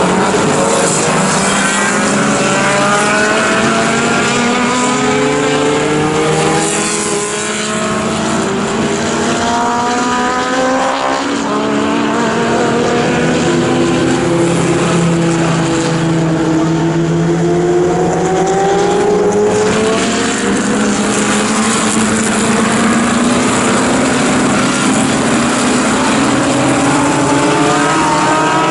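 Racing car engines running hard, several at once, their pitch climbing again and again as they accelerate through the gears, with overlapping cars and no let-up.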